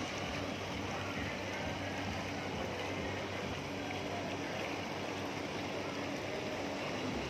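Steady rush of water and wind around a small boat on the water, with a faint low hum underneath.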